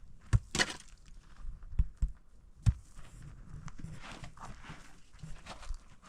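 A handful of sharp knocks and thuds, four loud ones in the first three seconds, with scraping and rustling between them, typical of someone moving about and handling wood.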